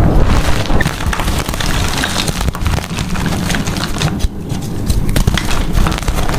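Gym chalk being crushed and crumbled: dense crunching with many small sharp cracks over low thuds.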